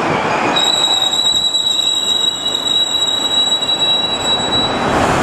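Keikyu 800-series train's wheels squealing against the rails: a steady, high-pitched squeal that starts about half a second in and stops near the end, over the noise of the train running.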